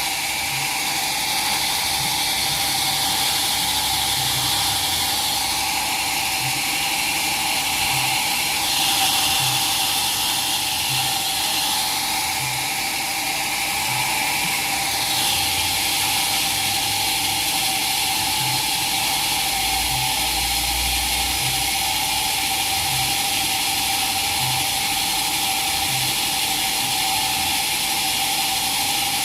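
Sawmill machinery running steadily: a constant hum with a high hiss over it and a faint low knock about once a second.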